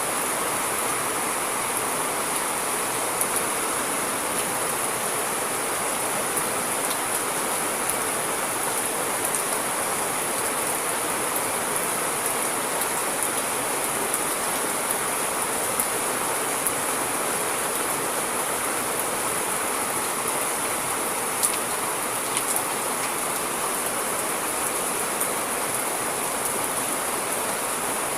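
Steady rain falling, an even hiss with scattered sharp drop ticks and one louder tick a little past the middle.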